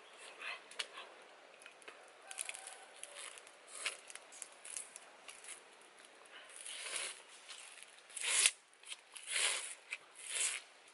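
Close-up biting and crunchy chewing of cooked food. It comes as a series of loud bursts in the second half, after faint scattered crackles.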